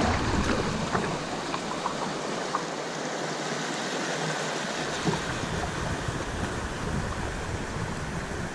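Flood-swollen river water rushing and splashing around a kayak: a steady hiss with small splashes now and then.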